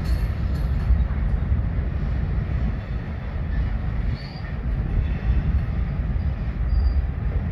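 Freight train of covered hopper cars rolling over an elevated steel trestle ramp: a steady low rumble of wheels on rail.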